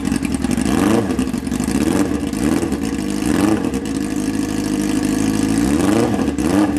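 Formula SAE car's new engine, fitted with its stock intake, running and revved up and back down in several short blips of the throttle.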